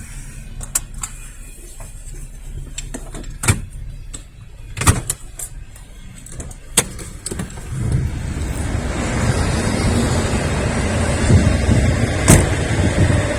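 Diesel-hauled freight train arriving: a low rumble broken by a few sharp clicks, then from about eight seconds in a loud, steady noise of the lead locomotive and rolling cars passing close by on the rails.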